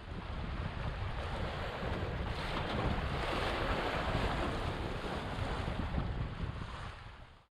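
Wind buffeting the microphone over rushing water from a small sailboat under sail in a stiff breeze, fading out near the end.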